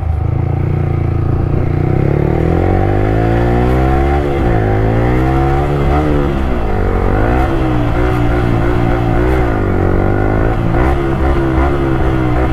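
Yamaha R15 V3's single-cylinder engine through an Akrapovic slip-on exhaust with no dB killer fitted, very loud. The revs climb, drop sharply and climb again several times as the bike is ridden.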